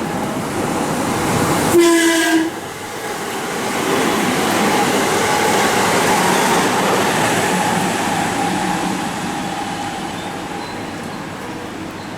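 A JR West train passing through the station: a short horn blast about two seconds in, then the steady rush and rumble of the cars going by, with a held whine, slowly fading toward the end.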